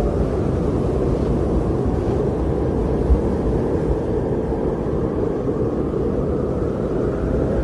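Strong blizzard wind rushing steadily, a deep low rumble with gusts, and one brief low buffet about three seconds in.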